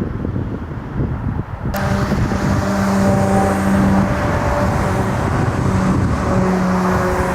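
Wind buffeting the microphone, then an abrupt cut about two seconds in to loud jet airliner engines, a steady roaring noise with several steady whining tones in it.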